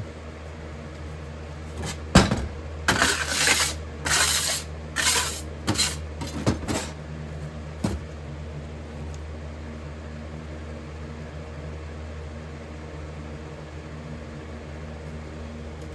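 Handling noises at a metal-pouring bench: a sharp knock about two seconds in, then several short bursts of scraping and clatter over the next five seconds, over a steady low hum.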